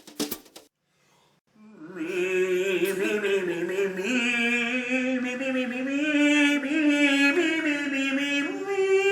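A singing voice holding long notes with vibrato, moving from note to note in steps and settling on a long held note near the end. It is preceded by a few sharp clicks and a brief pause.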